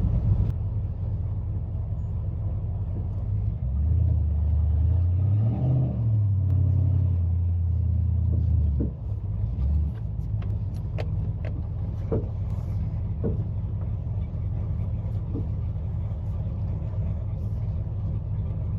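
Vehicle engine running under load as a stuck truck and trailer are pulled free. It gets louder about four seconds in, rises and falls in pitch, and drops back near nine seconds to a steady low rumble.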